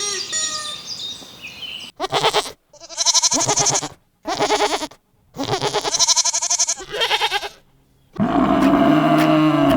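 Birds chirping for about two seconds, then a goat bleating five times in quavering calls, the calls split by abrupt silences. Near the end a tiger begins a deep, loud roar.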